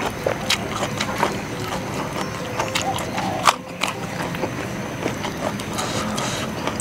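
Close-up crunching and chewing of crisp raw vegetables: irregular sharp crunches, the loudest about three and a half seconds in.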